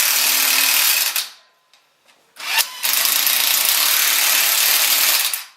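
A loud power tool running on a car during a brake job, in two long bursts: one at the start lasting about a second, then after a short pause a second one of about three seconds.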